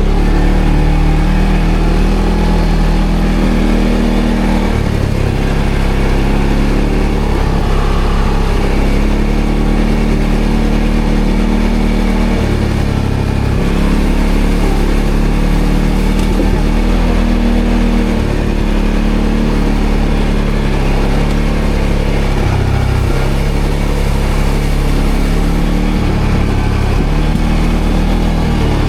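ATV engine running under changing throttle, its pitch stepping up and down several times as the quad rides over rough off-road ground.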